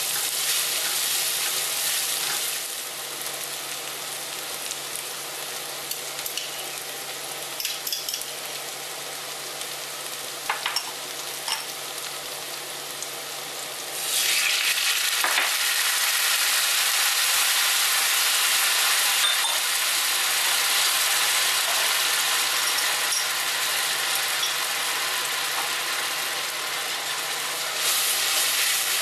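Chopped shallots, garlic and red chilies sizzling in hot oil in a frying pan while being stirred with a wooden spatula, with a few light clicks. About halfway through, the sizzling suddenly grows much louder as rice vinegar is poured into the hot pan, and it stays loud while the sauce is stirred.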